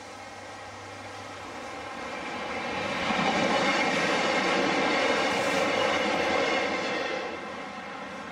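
Small camera drone's rotors buzzing, growing louder over a couple of seconds as it comes close, holding loud, then dropping off sharply about seven seconds in.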